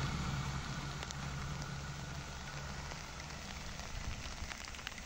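Steady rain hiss, with the low rumble of a passenger train moving away, fading out over the first few seconds.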